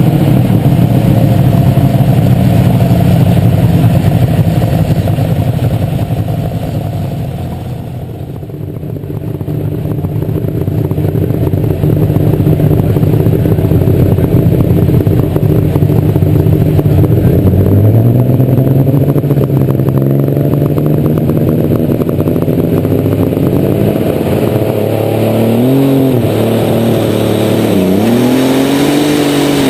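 A super stock pulling tractor's engine, heard from on board, runs loud and steady at high speed and eases off briefly about eight seconds in. It climbs in pitch again a little past halfway, and near the end it revs up and down a couple of times.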